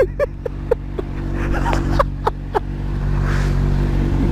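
Honda CBR125's single-cylinder engine running at a steady speed, with a few short clicks over it in the first half.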